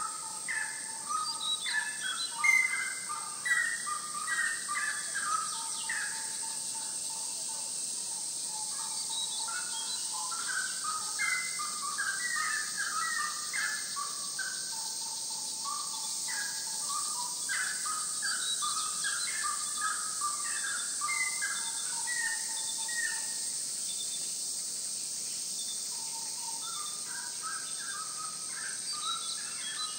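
Rainforest birds calling: phrases of quick, short notes stepping up and down, each run lasting several seconds with pauses between, along with a held lower whistle. A steady high hiss lies underneath throughout.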